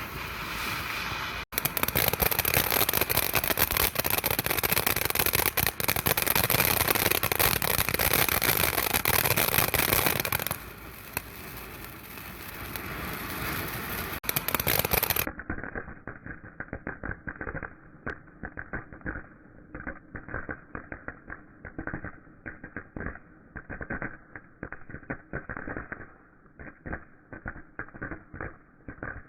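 A ground firework spraying and crackling loudly for about nine seconds, then dying down to a quieter hiss. It gives way abruptly to a muffled run of rapid, irregular crackles.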